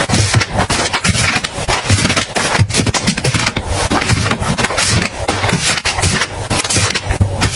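Continuous handling of packaging and containers: dense rustling and scraping with many quick clicks and knocks as items are unpacked and put away.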